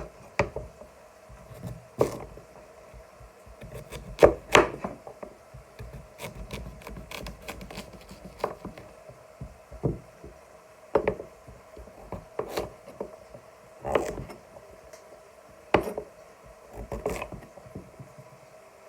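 Knife chopping sweet potato on a chopping board: irregular sharp knocks of the blade hitting the board, a dozen or so spread unevenly, with some rubbing between them.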